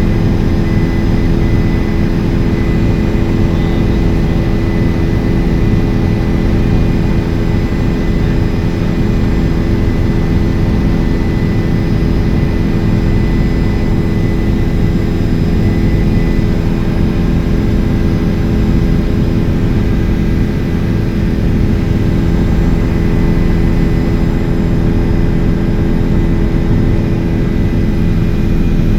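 Helicopter engine and rotor noise, a loud steady drone with a heavy low rumble and a constant hum.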